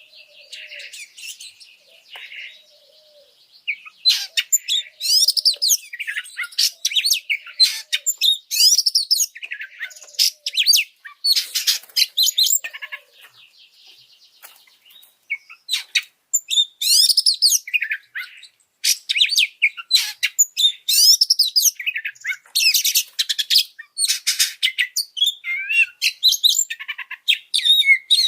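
Oriental magpie-robin (kacer) singing a fast, varied, high-pitched run of whistles and chirps. It is an agitated, high-energy song. The song is soft for the first few seconds, then comes in loud, dense phrases with a brief lull about midway.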